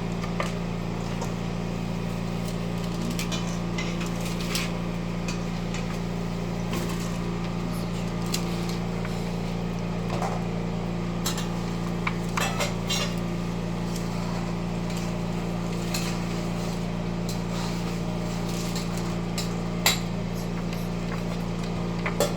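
Kitchen utensils clinking against dishes now and then while chicken is sauced and served, over a steady low hum.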